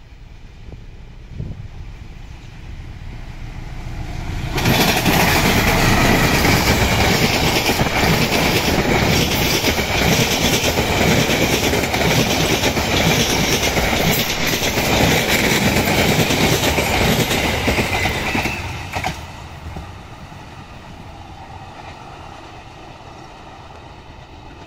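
Diesel-hauled passenger train passing close by. The engine's rumble builds over a few seconds, then a loud, steady rush of wheels and carriages on the rails, with clacking over the rail joints, lasts about fourteen seconds. It drops away as the train pulls off.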